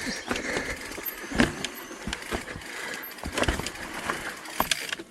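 Mountain bike clattering over wet rock and roots: tyres scraping and sliding, with irregular knocks and rattles from the bike.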